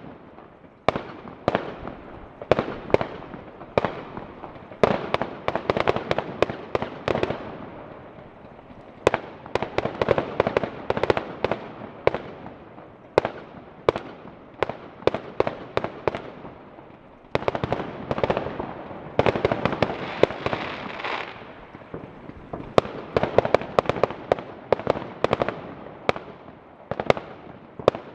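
Fireworks going off: many sharp bangs at irregular intervals, some in rapid runs of several a second, over a constant crackling.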